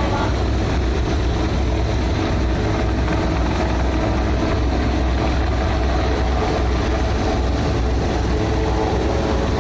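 Steady, loud low engine drone that does not change.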